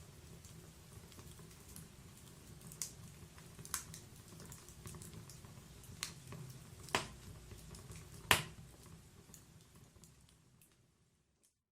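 Wood fire in a fireplace crackling over a low rumble of flame, with scattered sharp pops, the loudest about eight seconds in. The sound fades out near the end into silence.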